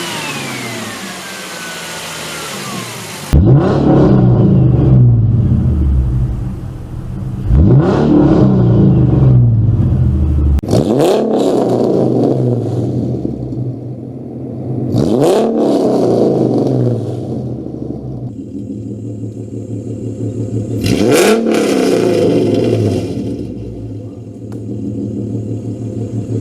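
Ford Mustang 4.0-litre V6 engine being free-revved while parked: about five sharp blips, each climbing quickly and then falling back to a steady idle. Before them, a different car's engine revs for the first few seconds, then cuts off abruptly.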